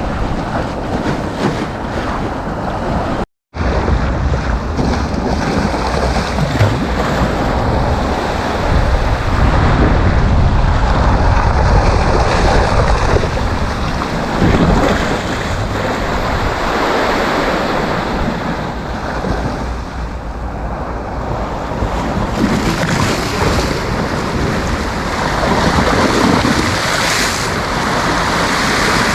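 Sea waves breaking and washing up the beach in a continuous surging roar that swells and eases, with wind buffeting the microphone into a low rumble. The sound cuts out for a split second about three seconds in.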